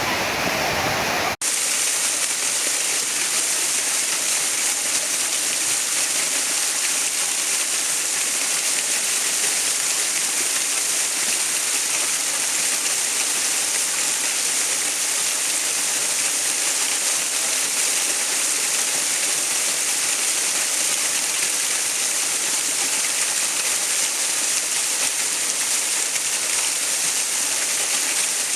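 Steady rushing water, an even hiss strongest in the high range with little low rumble. About a second and a half in, a fuller, deeper water sound cuts off abruptly with a brief dropout, and the steady rush continues from there.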